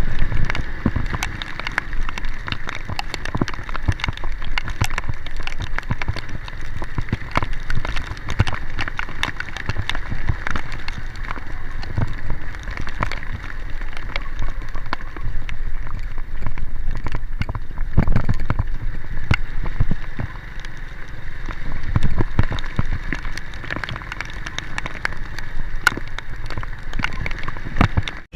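Heavy rain falling, with many irregular sharp drop hits and knocks over a low rumble and a steady high hum.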